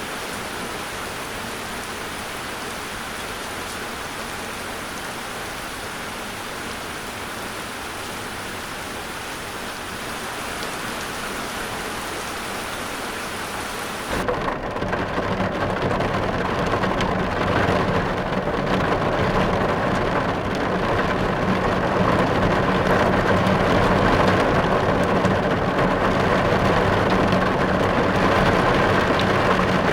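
Steady rain hissing. About halfway through it switches abruptly to louder, heavier rain with a steady low rumble underneath.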